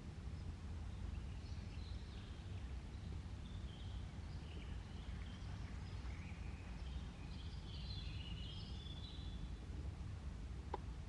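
Outdoor ambience: small birds chirping in short scattered calls over a steady low background rumble, with a brief click near the end.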